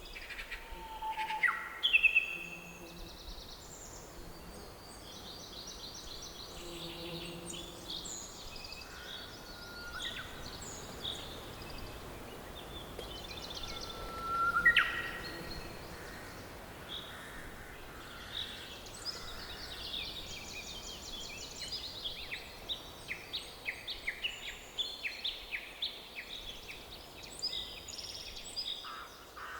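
Several songbirds singing and calling over a soft steady hiss of forest ambience. Short whistled notes, trills and rapid chirps overlap throughout, with two louder rising calls about two seconds in and about halfway, and denser chirping in the last third.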